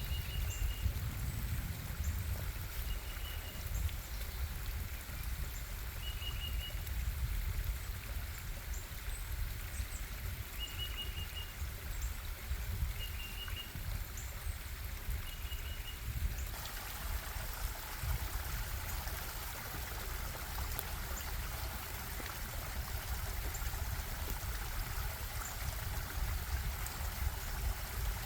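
Stream water running and trickling with a steady rush, heavy in the low end. A short, high trilled call repeats every one to two seconds through the first half. About halfway the water sound abruptly turns brighter and hissier, as at an edit to a different spot along the stream.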